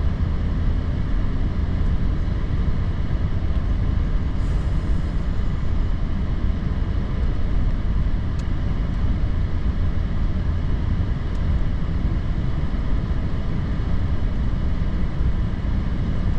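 Steady low rumble of a vehicle driving, engine and tyre noise heard from inside the cab.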